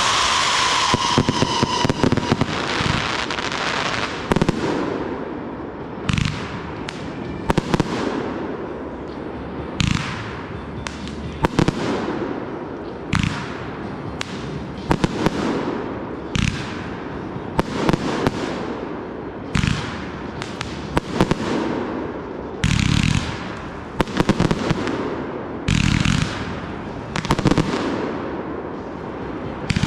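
Consumer fireworks going off in quick succession: sharp bangs every second or two over continuous crackling, with a few deeper, longer booms in the second half.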